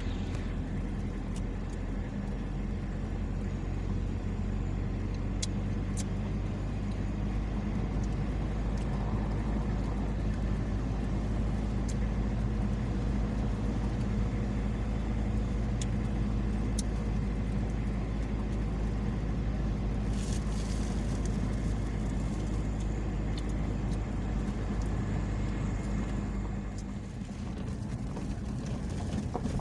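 A motor engine running steadily at an even speed, with a few sharp clicks along the way; its note changes and drops about 27 seconds in.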